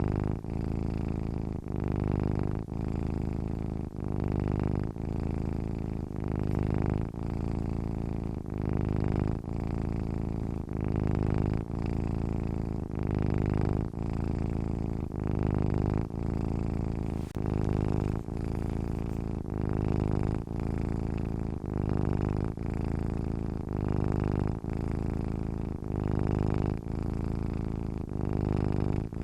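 Domestic cat purring steadily while asleep, the purr swelling and dipping about once a second.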